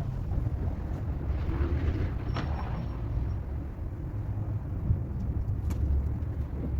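Wind buffeting the microphone as a steady low rumble, with a couple of faint clicks.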